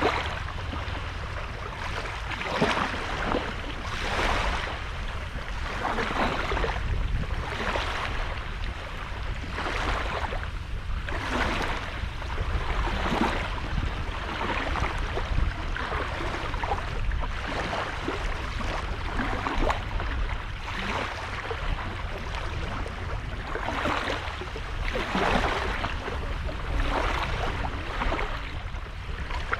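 Small waves breaking and washing onto a sandy beach, a fresh wash of hiss every one and a half to two seconds over a steady low rumble.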